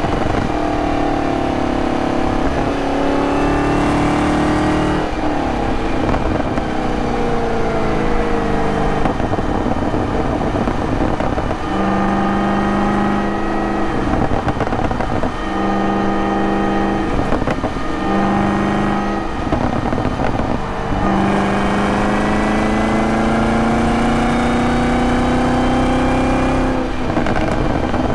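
Supercharged 6.2-litre V8 of a 2023 Camaro ZL1 running under way. Its note falls as the car slows, then holds a steady pitch with two brief breaks, and late on rises steadily as it accelerates through the revs.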